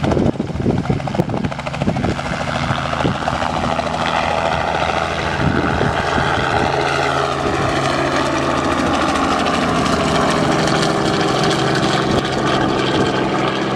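Helicopter running with its rotor and engine making a steady drone, with uneven thumps in the first couple of seconds and a whine that bends upward about seven seconds in.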